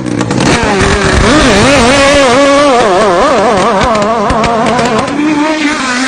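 A racing boat's engine revved up and down over and over, its pitch rising and falling about twice a second before settling lower near the end.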